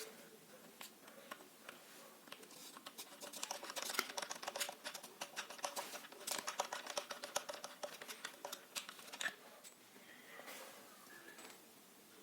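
A quick, uneven run of small scratches and clicks from hand work on small parts, thickest through the middle and thinning out near the end.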